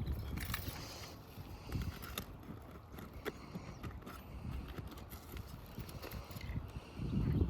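Irregular scraping and light clicks of hand tools working loose asphalt roof shingles and pulling their nails, over a low rumble.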